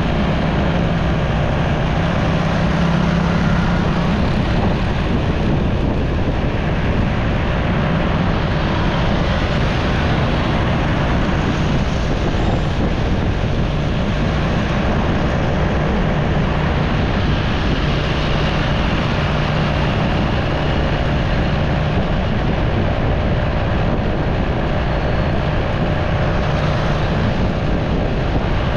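Motorcycle riding along a road in traffic: a steady engine hum under continuous wind and road noise, the hum swelling and easing a few times with the throttle.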